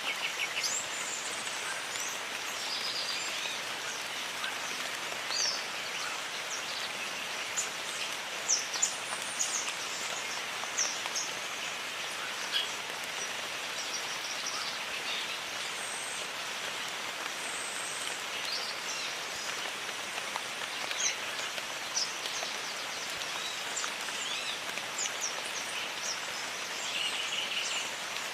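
Steady rain falling in a jungle, with scattered short, high bird chirps and calls over it and a brief trill near the end.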